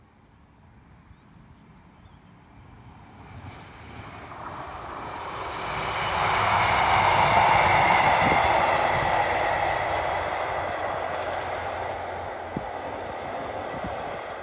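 Two-car diesel multiple unit passing at speed: its running and rail noise builds from faint to loudest about seven seconds in, then fades as it moves away.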